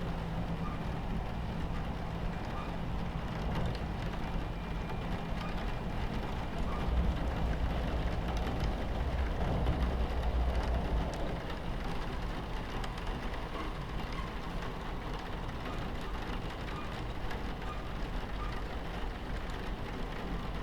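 Steady low rumble of a train running along the tracks, heard from inside the carriage, with rain pattering on the window. The rumble swells louder for a few seconds near the middle, then settles back.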